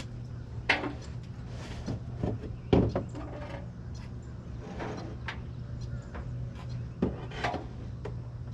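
Handling noise from setting up a pressure washer's downstream injector: scattered knocks, clicks and rubbing of hoses, tubing and fittings, with one sharper knock just under three seconds in, over a steady low hum.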